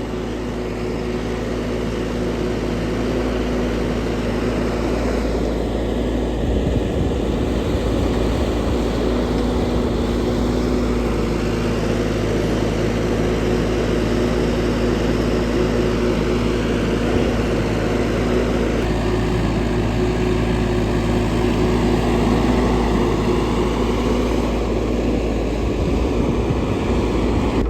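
An engine running steadily at a constant speed, its tone shifting slightly about two-thirds of the way through.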